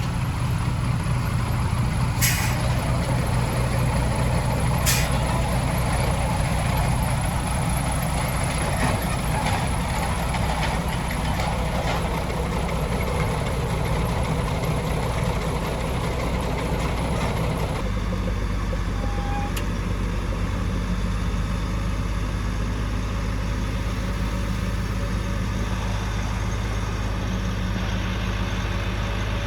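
Heavy diesel engine of a truck or earthmoving machine running steadily with a deep rumble. Two short, sharp hisses come about two and five seconds in. About eighteen seconds in the engine sound changes abruptly to a steadier, lower drone.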